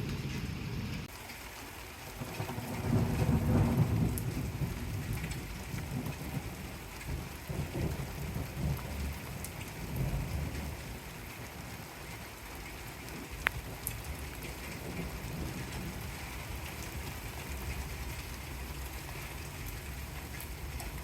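Rain falling steadily, with a low rumble of thunder that swells about two seconds in and peaks around the fourth second, then weaker rumbles. One sharp click about halfway through.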